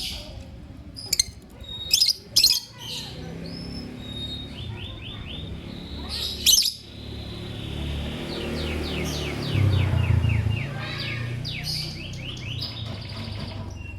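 Lovebirds chirping. A few loud, sharp chirps come in the first few seconds and again about six seconds in, with runs of quick twittering notes in between.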